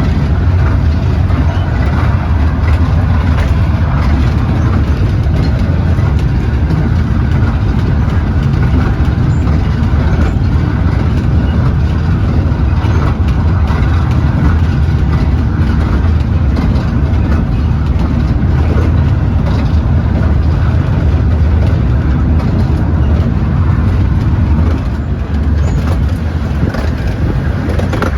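Steady rumble of a Romney, Hythe & Dymchurch Railway miniature train running along the 15-inch gauge track, with the noise dropping a little near the end.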